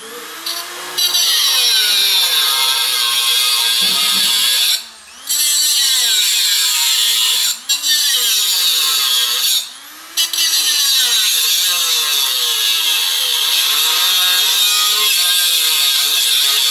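Handheld power tool cutting through metal, a loud high hiss. It runs in long stretches with short stops about five, eight and ten seconds in. The cut leaves sharp edges that need filing.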